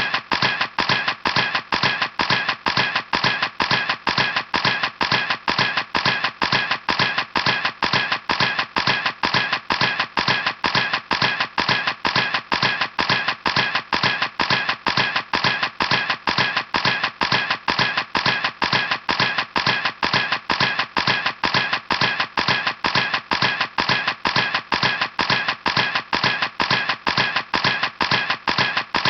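Camera shutter clicking over and over at an even rhythm, a few sharp clicks a second, like a camera firing continuously.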